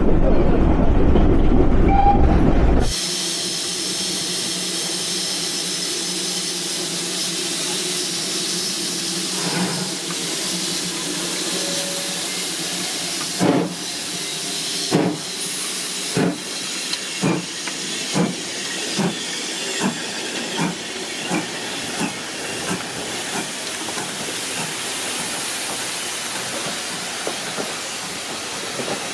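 Loud low rumble that cuts off about three seconds in, then a steam locomotive hissing steadily. From about halfway through it gives a run of exhaust chuffs that come gradually quicker as it pulls away.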